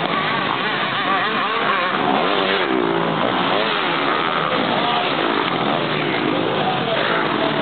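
Several motocross motorcycle engines revving at once, their overlapping pitches rising and falling.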